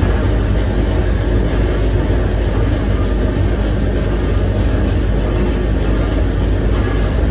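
Heavy industrial machinery running with a steady low rumble and hum.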